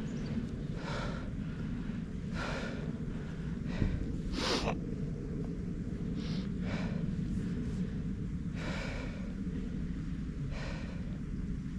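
A cyclist breathing hard from exertion, a heavy breath every second or two, over a steady low rumble.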